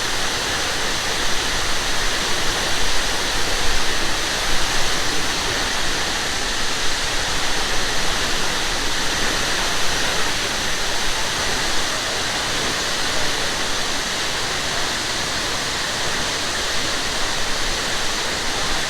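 A large waterfall crashing into its plunge pool: a steady, loud roar of falling water.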